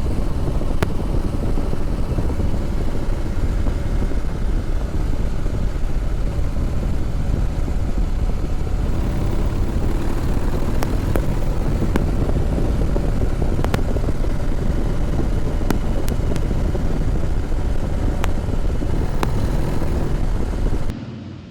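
Harley-Davidson Heritage Softail Classic V-twin running steadily while riding, with heavy wind rush over the microphone and a few sharp clicks. The sound cuts off abruptly just before the end.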